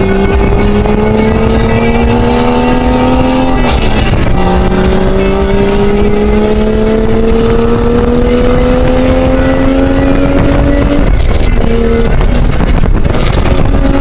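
Toyota Camry Solara's engine heard from inside the cabin, accelerating with its pitch climbing. The pitch drops at a gear change about three and a half seconds in, then climbs again until about eleven seconds, when it drops and holds steady, over constant road and wind noise.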